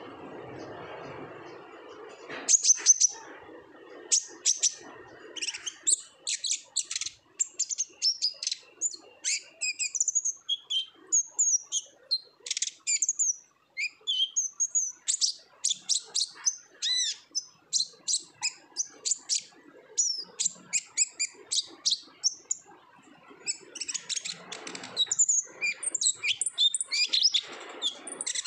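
Kolibri ninja sunbird singing a fast, busy run of short, sharp high chirps and twitters, close to the microphone.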